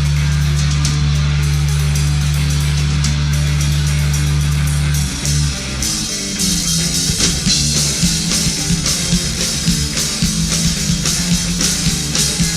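Live rock band playing the instrumental opening of a song: a loud, held low guitar chord rings for about five seconds, then the drums and full band come in with a steady beat about six seconds in.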